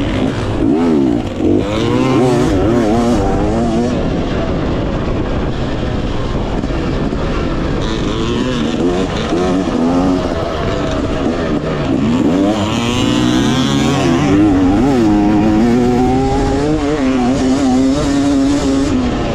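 Dirt bike engine revving up and down again and again while riding a motocross track, over a steady rush of wind noise.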